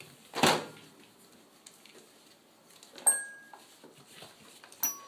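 Puppies moving about in a whelping box: a loud brief rustling scuffle about half a second in, then two sharp metallic clinks that each ring on briefly, about three and five seconds in.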